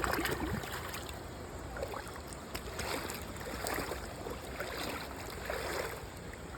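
Water sloshing and trickling around a kayak on a river, with soft swishes about once a second.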